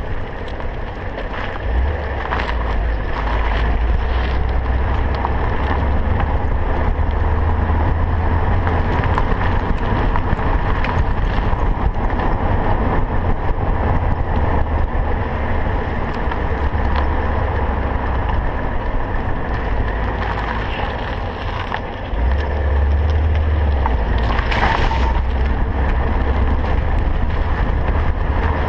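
2000 BMW M5 rolling slowly over bumps, a steady low rumble with a few sharp knocks: the front-end clunk that goes on even with brand-new sway bar links fitted.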